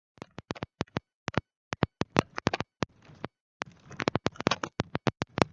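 A rapid, irregular series of sharp clicks and taps, several a second, with short stretches of faint hiss between them.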